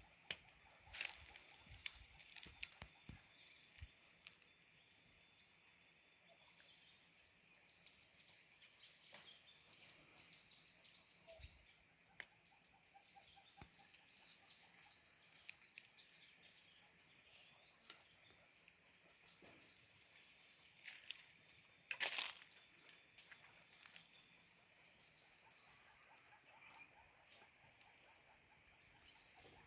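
Faint rainforest ambience: a steady high insect whine with recurring trains of high, rapid chirping calls, and scattered clicks and knocks, the sharpest about two-thirds of the way through.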